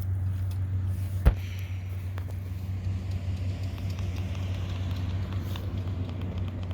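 Steady low machine hum, with a single sharp knock about a second in.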